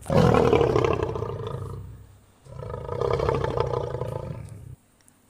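Lion roaring: two long roars, each fading as it goes, the second cut off suddenly about a second before the end.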